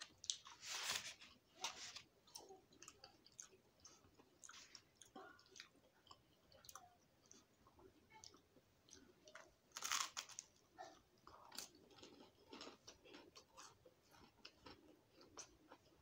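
A person chewing and biting into waffle and bacon close to the microphone: quiet, with many small wet mouth clicks and a few louder bites near the start and about ten seconds in.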